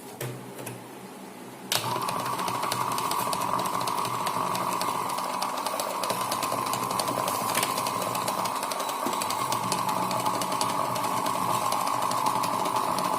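Homemade water pump driven by a table fan motor, switched on about two seconds in and then running steadily with a constant hum and a fine rattle.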